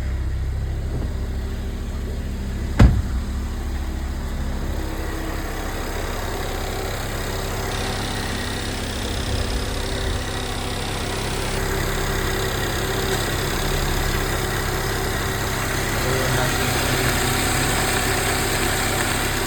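2014 Volkswagen Jetta engine idling steadily, a while after a cold start, with no odd noises; the owner calls it very healthy. One sharp knock about three seconds in.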